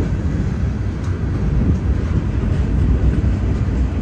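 Freight train rolling by: a loud, steady low rumble.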